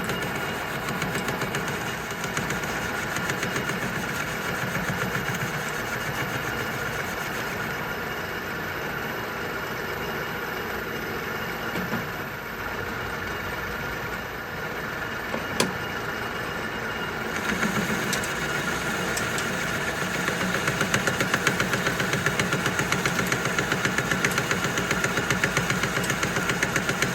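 Metal lathe cutting the inside of a steel press plate's bore with a boring bar, with a fast, even knocking each time the tool passes over a slot in the bore: an interrupted cut. The knocking grows louder about two-thirds of the way through.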